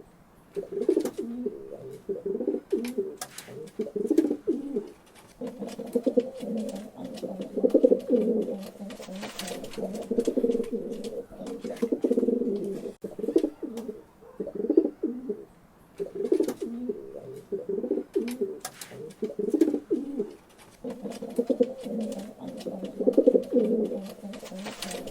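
Pigeons cooing in low, throaty repeated phrases that overlap almost without pause, with scattered sharp clicks.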